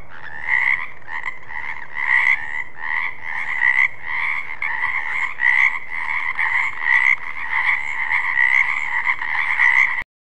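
Frogs croaking steadily in a chorus, pulsing about two to three times a second, then cutting off abruptly near the end.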